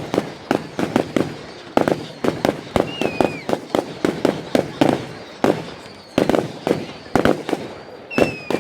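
Fireworks exploding in a rapid, irregular barrage of bangs, several a second, with a couple of high falling tones among them.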